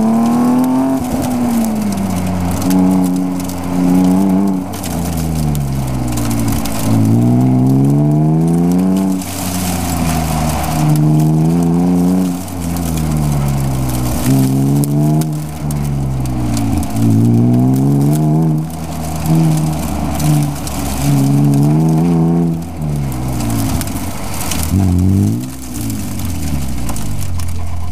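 BMW E36 M3's straight-six engine heard from inside the cabin while the car is driven hard: the revs climb and drop back again and again, every two to three seconds. Near the end the engine settles to a steadier, lower note as the car slows past the finish.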